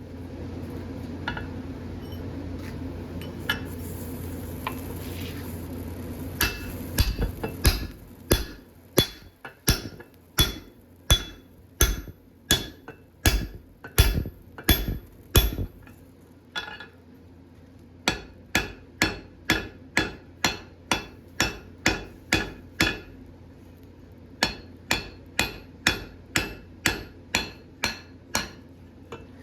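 Hammer blows on a bar of hot alloy steel on an anvil, about two a second with a ringing clank each, in three runs broken by short pauses. A steady hum sounds for the first several seconds, before the hammering starts.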